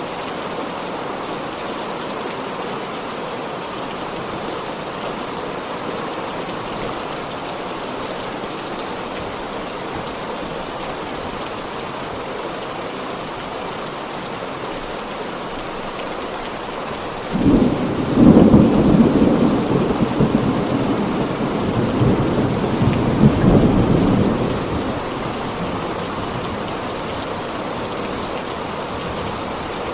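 Heavy, steady rain, with a sudden thunderclap a little past the middle that rumbles on for about seven seconds before dying back into the rain.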